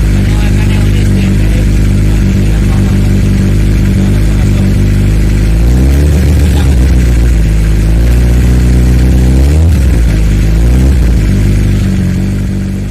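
Suzuki GSX-R1000 inline-four engine idling through an aftermarket Arrow exhaust, revved briefly twice, about six and nine and a half seconds in. The sound fades out near the end.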